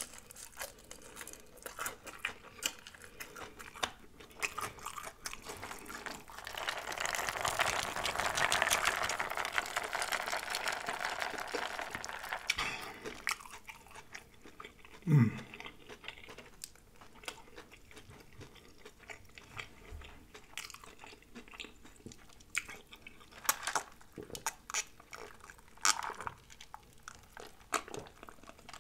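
Chewing and crunching of fried battered shrimp close to the microphone, with scattered crisp crunches and mouth sounds. A steady hiss runs for several seconds near the middle, and a brief falling hum comes about fifteen seconds in.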